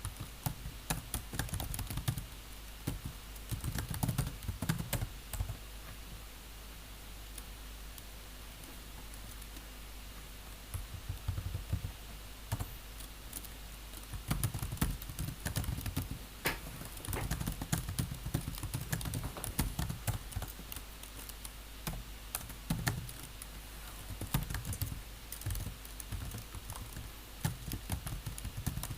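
Typing on a computer keyboard: runs of quick key clicks broken by short pauses, with a longer lull of a few seconds early on and another shorter one about three quarters through.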